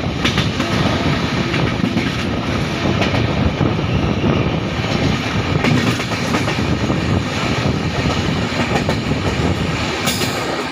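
Express passenger train running at speed, heard from aboard: a steady rumble of wheels on rails, with occasional sharp clacks as it crosses rail joints and points.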